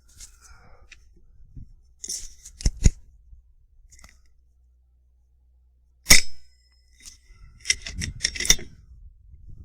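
FX Impact M3 PCP air rifle firing once, a sharp crack about six seconds in with a short ring after it, followed by a run of mechanical clicks and rattles as the rifle is handled. Lighter clicks and rustles come earlier, over a steady low wind rumble.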